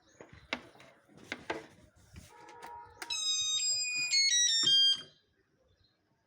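A few sharp clicks or knocks, then an electronic beeper plays a short melody of stepped pure tones for about two seconds and cuts off sharply.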